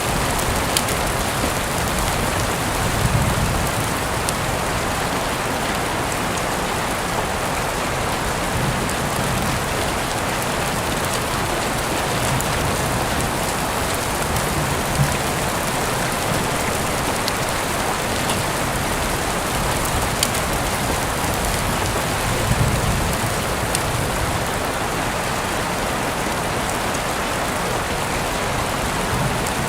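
Steady rain falling on a surface, a continuous hiss with scattered sharper drop ticks. A few soft low swells come and go, the strongest about three seconds in and again near the end.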